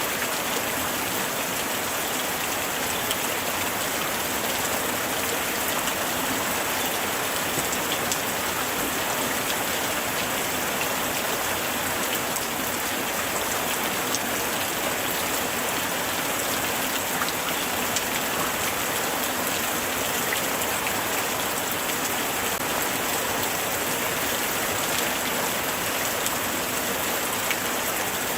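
Steady light rain falling, with many small drops pattering on a surface.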